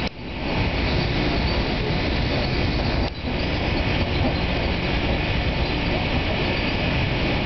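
Steady running noise inside a New Jersey Transit Arrow III electric multiple unit travelling at speed: the rush of wheels on rail and the car body, with two brief dips in level, at the start and about three seconds in.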